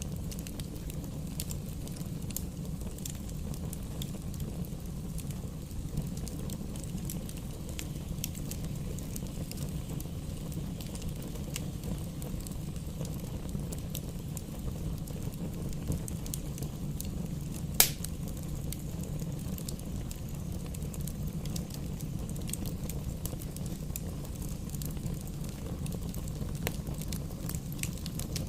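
Campfire burning with frequent small crackles over a steady low rumble, and one sharp, loud pop about eighteen seconds in.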